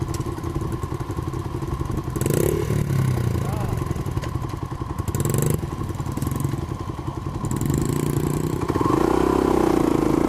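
Small dirt bike engine running, getting louder from about two-thirds of the way in, with a couple of brief bursts of noise along the way.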